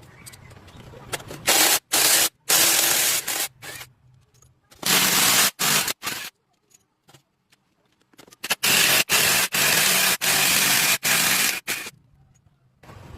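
Hissing spray from a pressurised spray tool, going in several bursts of about one to three seconds that start and stop abruptly.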